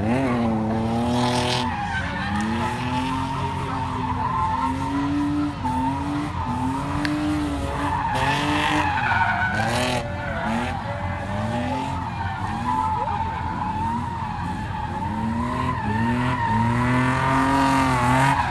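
BMW E36 328is straight-six revving up and down over and over while drifting, with the tires squealing and skidding.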